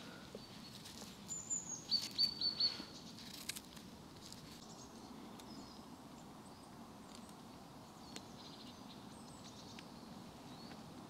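Quiet forest ambience with small birds calling: one short high call, then a quick run of about four short high notes a couple of seconds in, over a faint steady hiss.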